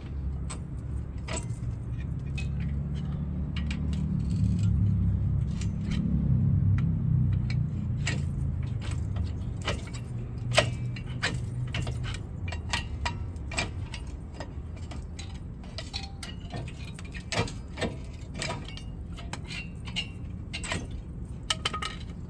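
Scattered metallic clinks and knocks from tools and rusted rear brake parts being worked loose, coming more often in the second half. Under them is a low rumble, loudest about four to seven seconds in.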